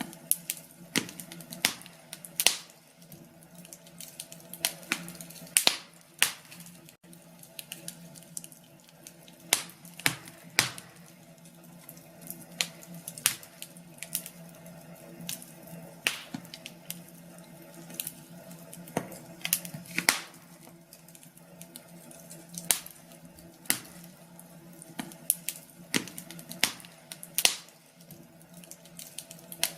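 Wood fire crackling in a fireplace: irregular sharp pops and snaps, a few a second, over a faint steady hum.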